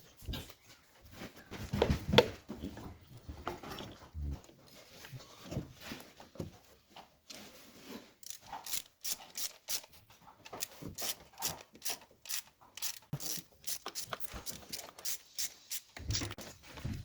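Irregular clicks, taps and knocks of hand tools and metal parts being handled while an engine is fitted, with a few heavier thuds in the first few seconds and quicker clicking in the second half.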